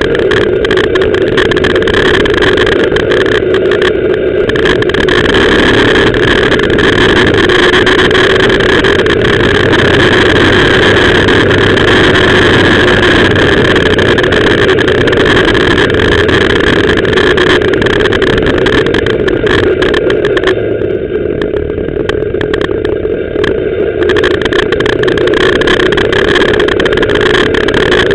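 BMW R 1200 GS Adventure's boxer-twin engine running steadily as the motorcycle rides along, with wind and road noise. The sound eases briefly, a little quieter for a few seconds about three-quarters of the way through.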